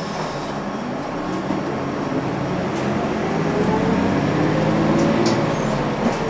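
Cabin running noise of a UD Space Runner RA (PKG-RA274KAN) non-step city bus. Its diesel engine drones steadily, then rises in pitch from about halfway through as the bus picks up speed, and eases off again near the end.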